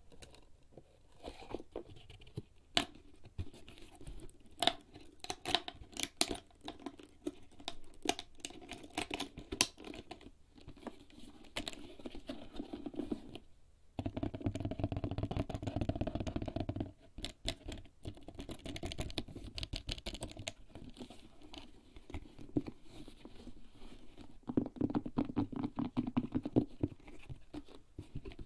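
Fingers tapping and scratching on a HERZ leather bag: irregular light taps and clicks, with a denser stretch of rubbing and scratching about halfway through.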